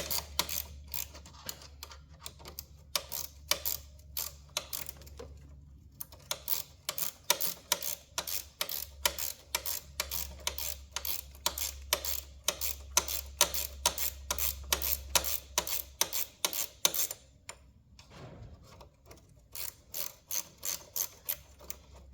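Ratchet wrench clicking in quick runs of sharp metallic clicks, a few per second, as fasteners are worked loose. A low steady hum lies under most of it and stops about three-quarters of the way through.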